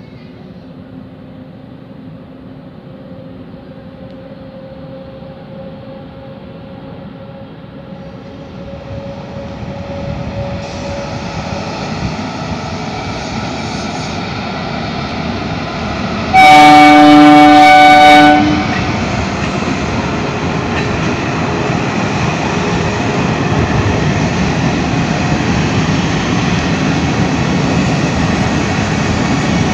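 An Indian Railways diesel multiple unit (DEMU) train approaching and running by, its running noise building steadily from about a third of the way in. A little past halfway it gives one loud horn blast of about two seconds. Steady loud running noise follows.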